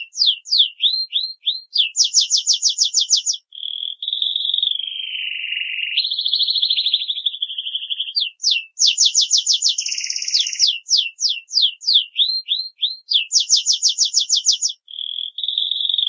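Songbird singing high, clear whistles: quick runs of downward-sweeping notes, very fast trills and longer sliding notes, with the same phrases recurring several times.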